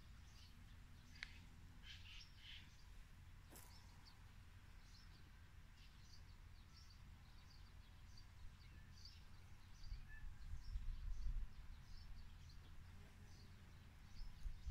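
Small birds chirping faintly, many short high calls scattered throughout. A low rumble rises for about a second and a half, about two-thirds of the way through.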